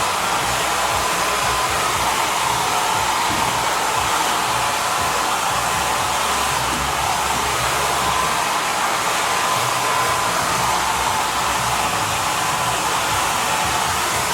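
Holistic Cure Dryer Rp. hair dryer blowing steadily in its moisture mode: an even rush of air with a faint steady whine.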